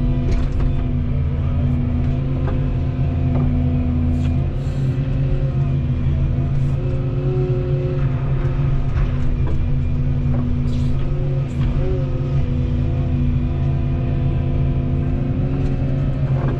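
Volvo 235EL excavator's diesel engine running steadily under working load, its note shifting slightly as the hydraulics work, with a few short knocks.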